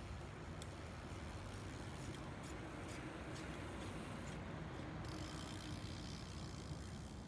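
Steady ambient background noise with a low rumble underneath and a few faint clicks.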